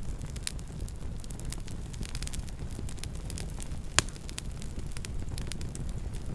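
Campfire burning: a steady low rumble under scattered crackles, with one loud pop about four seconds in.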